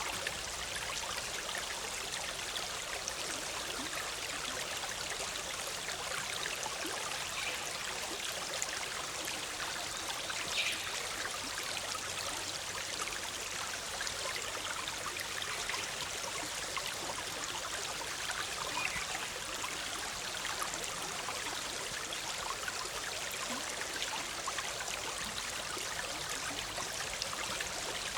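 Forest stream bubbling and rushing steadily over rocks.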